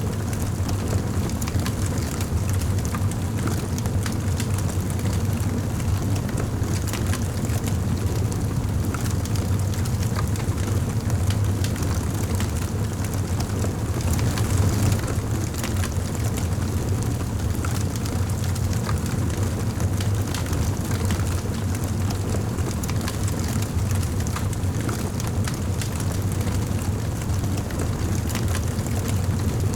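Wood fire burning in a fireplace: many quick crackles and pops over a steady low rumble of the flames.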